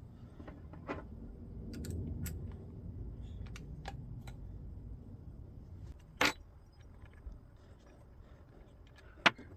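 Scattered light clicks and knocks of things being handled at a workbench, over a low rumble, with two sharper knocks about six and nine seconds in.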